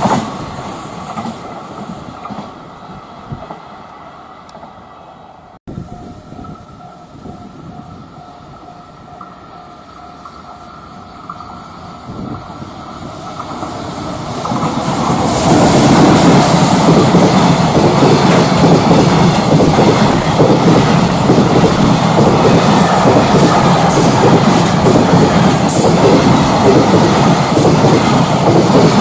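Container freight trains on the rails. One fades away at the start, and after a sudden cut another approaches and passes close by from about 15 s on, its wagon wheels clattering steadily over the track.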